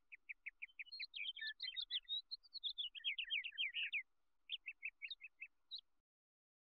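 A small songbird chirping: a string of quick, short chirps, a busier stretch of twittering and trills in the middle, then spaced chirps again that stop shortly before the end.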